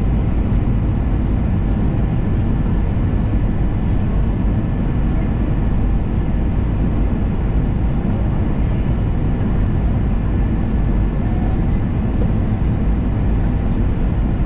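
Steady airliner cabin noise: a constant low rumble of engines and rushing air heard from a passenger seat.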